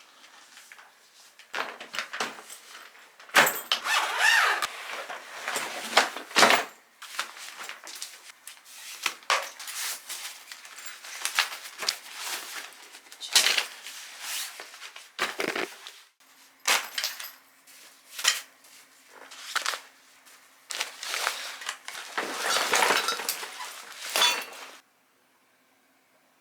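Camping gear being handled and packed by hand: irregular rustling of bags and fabric with light knocks and clatters, stopping abruptly near the end.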